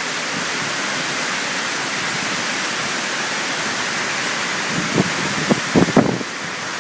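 Heavy thunderstorm downpour: rain falling hard in a steady, even hiss, with a few short bumps about five to six seconds in.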